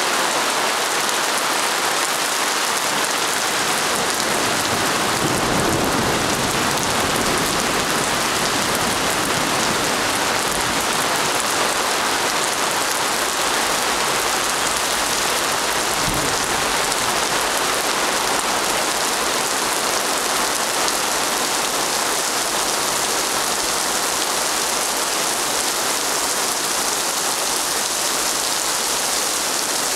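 Heavy rain pouring steadily onto a paved plaza: a dense, even hiss of drops splashing on wet paving. A brief low rumble swells under it about five seconds in, and again briefly past the middle.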